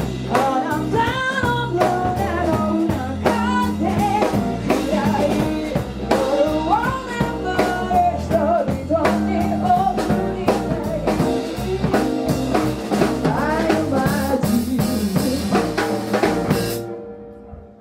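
A band playing a song with a singer over drum kit and bass, the full band cutting off together about a second before the end.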